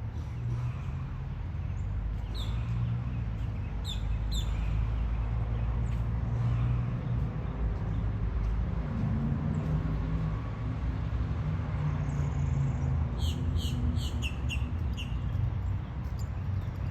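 Bird chirping in short, high calls: a few early on and then a quick run of them about thirteen seconds in. A steady low rumble lies under it throughout.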